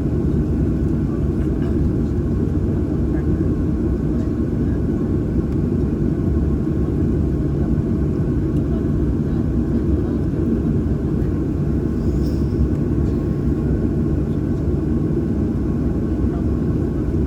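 Steady cabin noise of a Boeing 737-800 with its CFM56-7B engines at idle, a deep even rumble heard from inside the passenger cabin.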